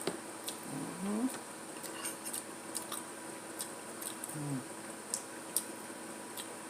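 Utensils clicking and scraping against a plate in short, sharp, irregular taps while eating, with two brief hummed vocal sounds, one about a second in and one near four and a half seconds.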